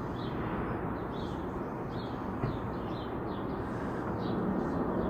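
Small birds chirping repeatedly in short, high, falling notes over a steady low rumble of outdoor background noise that swells near the end.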